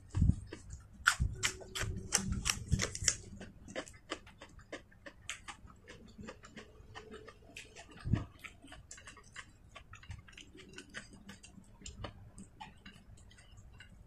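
Close-up eating sounds: crisp chewing and wet mouth clicks from a mouthful of raw leafy greens and fried fish, dense for the first few seconds and then lighter and scattered. A single low knock comes about eight seconds in.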